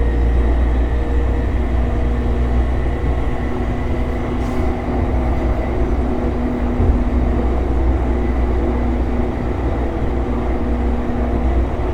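JR East E233-series electric train running, heard from inside the carriage: a steady low rumble of wheels on rail, with several humming tones held under it.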